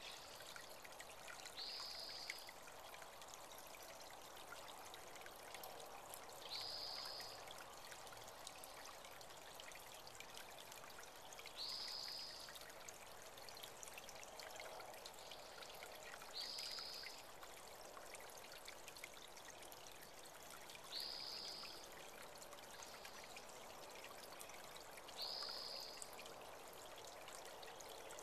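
Small spring-fed creek trickling and pouring steadily, with a bird calling a single short high note about every five seconds.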